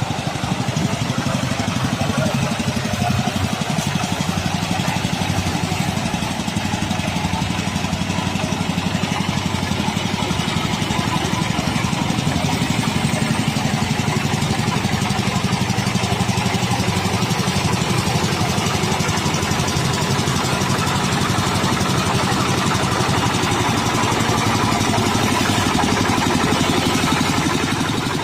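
Tractor engine of a small baby road roller running steadily, with a fast, even firing beat that grows a little louder near the end.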